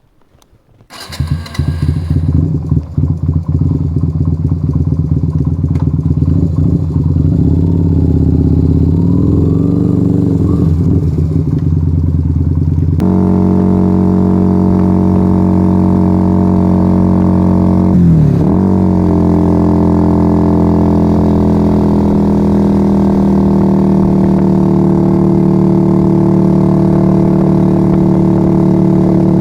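Yamaha XV125 Virago's small V-twin starting about a second in and idling loudly through a straight-piped Turbo Kit exhaust with no dB killers. A little under halfway through, the idle steps up to a higher steady speed, and a few seconds later it dips briefly and recovers.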